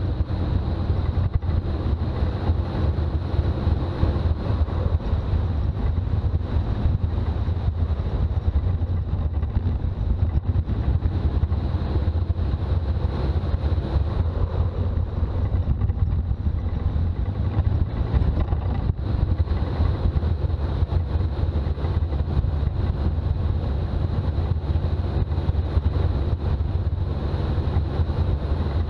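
Toyota BJ40 Land Cruiser's diesel engine and road noise while driving, a steady low drone.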